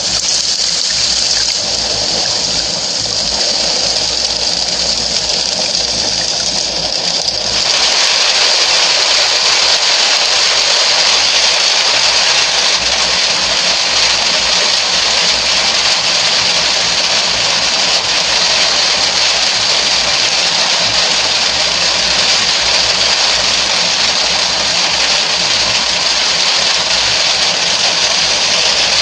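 Steady, heavy rain with an even hiss that grows fuller and a little louder about seven and a half seconds in.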